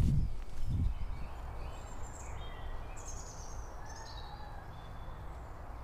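Wild birds calling: several short, high, falling chirps and whistles in the middle stretch. Beneath them runs a low steady rumble of wind on the microphone, with a couple of heavy footsteps on the ground in the first second.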